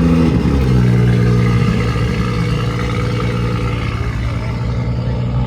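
Car engine revving briefly at the start, then running at a steady, even note.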